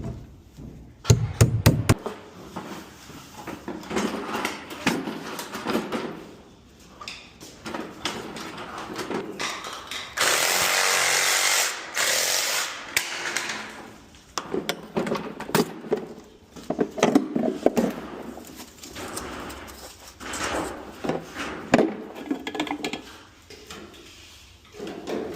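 Plumbing tool work: irregular knocks, clatter and scraping, with a power tool running in a loud, even burst for about two seconds around the middle and briefly again just after.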